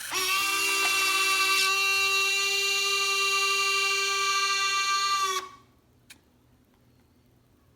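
Electric retractable landing gear of an E-flite F/A-18 Blue Angels model whining steadily as the gear motors run. One unit stops about a second and a half in; the rest cut off suddenly after about five seconds as the gear reaches its end position.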